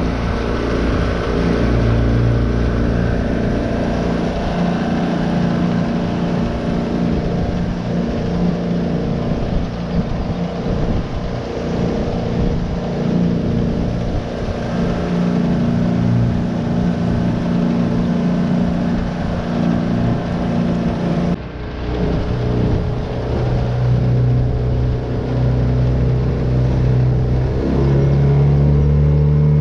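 Tohatsu 9.8 four-stroke outboard motor running steadily under way. Its level dips briefly about two-thirds of the way through, and near the end its note steps up in pitch as it speeds up.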